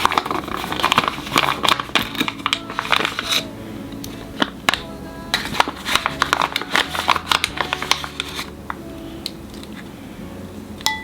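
Cat food packaging being handled and opened, crinkling and rustling with many quick clicks and crackles, as wet cat food is served out for the cats.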